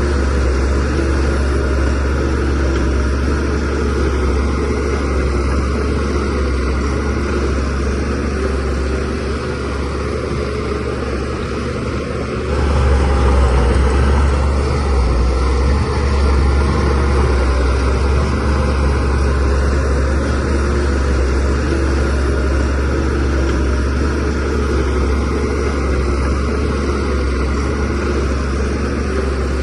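DH17C3PRO bulldozer's diesel engine running steadily with a deep low hum. About twelve seconds in it suddenly grows louder and stays that way.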